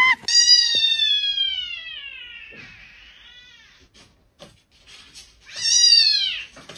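A cat giving two long, drawn-out meows: the first falls slowly in pitch over about two and a half seconds, and a second, shorter one rises and falls about five and a half seconds in.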